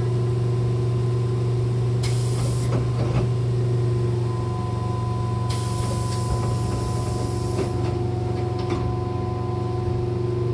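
Hankyu train's pneumatic sliding doors closing: a short hiss of air about two seconds in and a longer hiss a few seconds later, with knocks as the doors shut. Under it runs a steady electrical hum from the train.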